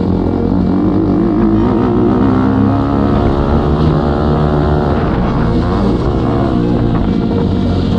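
Motocross bike engine running and revving, its pitch rising and falling.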